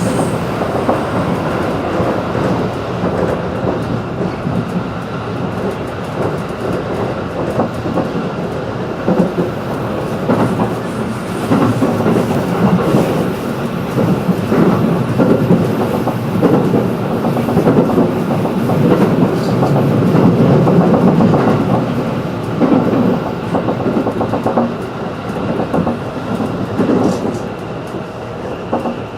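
Running noise of a JR 211 series electric train, heard from inside the passenger car: a continuous rumble of steel wheels on rail at speed.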